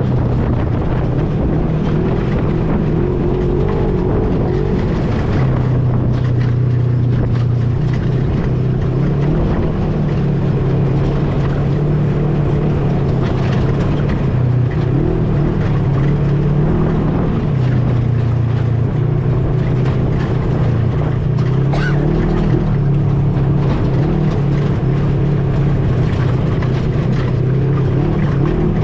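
An ATV engine running steadily under way, its pitch rising and falling a little as the speed changes, with rough rumble from the ride. A single sharp click comes about two-thirds of the way through.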